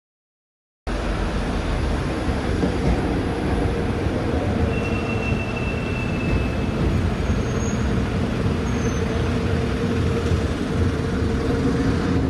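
Urban rail car running on its track, a steady rumble with a hum, starting abruptly about a second in. A thin high squeal sounds for about two seconds near the middle.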